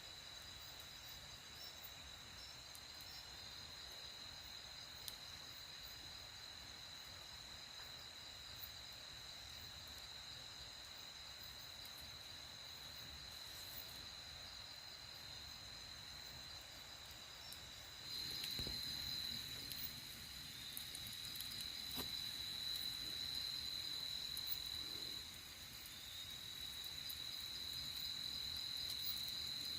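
Crickets trilling in a steady high-pitched chorus that grows louder about two-thirds of the way in and dips briefly shortly after, with a few faint clicks.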